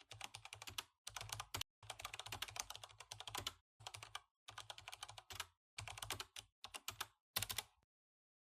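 Computer keyboard typing: rapid clicking keystrokes in short bursts with brief pauses, stopping just before the end.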